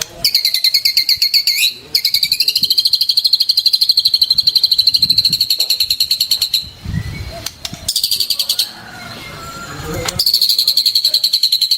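White-rumped shama song: long runs of rapid, evenly repeated high chattering notes. The runs break off briefly about two seconds in, pause in the middle with a short burst, then start again near the end.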